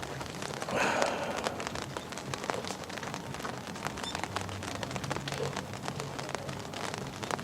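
Rain falling, with many separate drops ticking on a surface, and a brief louder rustle about a second in.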